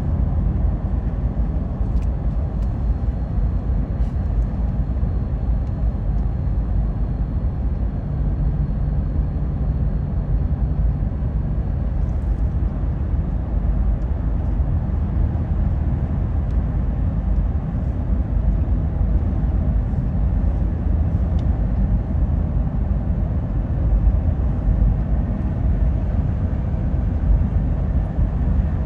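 Steady low rumble of a car on the move, road and engine noise, with a few faint ticks.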